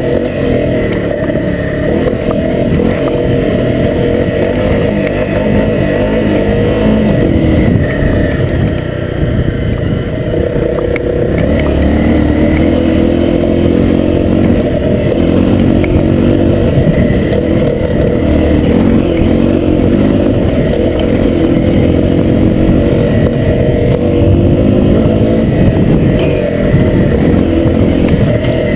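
Honda CRF250L dual-sport motorcycle's single-cylinder four-stroke engine running under load on a trail ride, its note rising and falling with the throttle. The engine tone grows steadier and stronger from about twelve seconds in.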